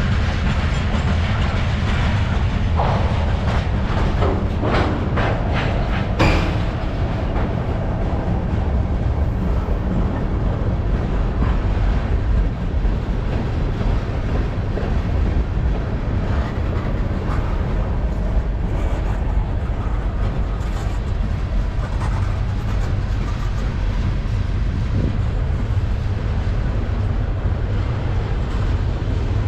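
Freight cars of a long mixed freight train rolling past, a steady low rumble of steel wheels on rail. In the first several seconds there is a quick series of wheel clacks over rail joints, after which the rumble runs on more evenly.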